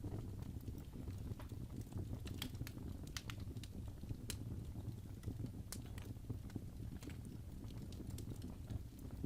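Wood fire crackling in a fireplace: irregular sharp snaps and pops over a low, steady rumble.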